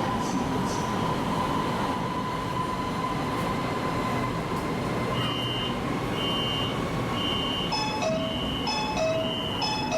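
Steady running noise inside a Shanghai Metro Line 11 car, with a thin whine in the first half. About five seconds in, a short electronic beep starts repeating about once every three-quarters of a second, and near the end a lower two-note tone joins it.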